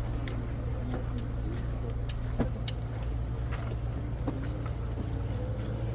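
A steady low rumble, like a motor running, under faint crowd chatter, with a few light clicks and taps.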